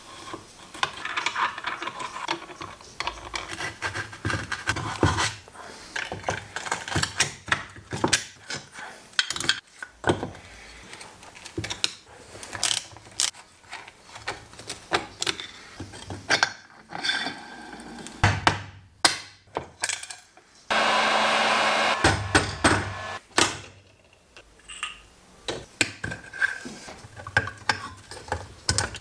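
Workshop tool sounds: irregular knocks, clicks and scraping on parts, with a power tool running steadily for about a second and a half roughly two-thirds of the way through.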